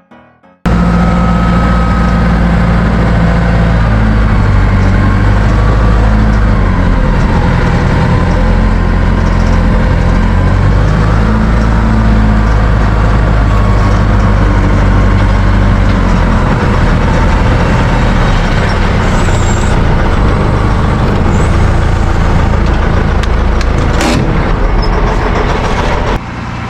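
Heavy truck engine running loud and steady, its pitch shifting slightly now and then.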